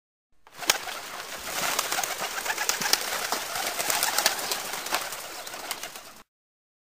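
Birds, over a steady hiss scattered with many sharp clicks; the sound starts about half a second in and cuts off suddenly near the end.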